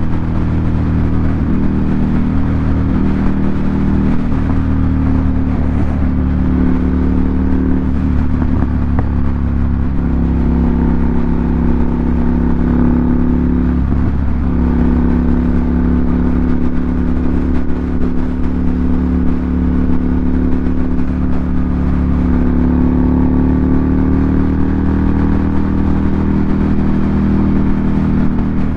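2018 Ducati Monster 797's air-cooled L-twin engine running through an aftermarket SC Project exhaust, at a fairly steady engine speed with small dips and rises in pitch.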